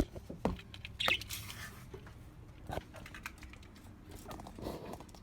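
Knocks, clicks and rustling as a bird is handled and moved about in an aviary, with a short bird call about a second in.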